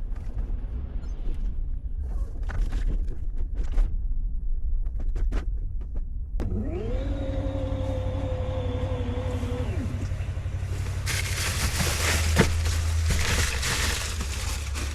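Steady low engine and road rumble inside a car. About six seconds in, a small electric motor whines up, holds a steady pitch for about three seconds and winds down. From about eleven seconds a louder hiss joins the rumble.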